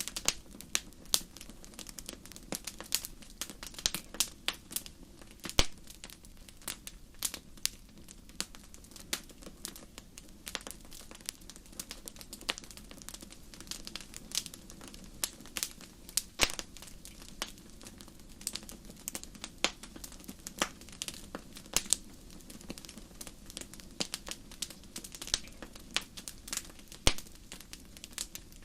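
Wood fire crackling in a fireplace: a steady stream of irregular sharp pops and snaps, a few much louder than the rest, over the soft low rumble of the burning flames.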